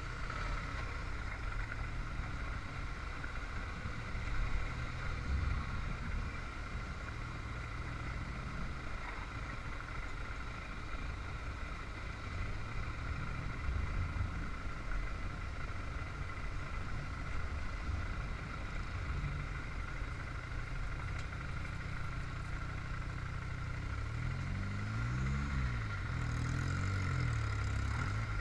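Motorcycle engine running under way, with steady road and wind noise. Near the end the engine note rises and falls briefly.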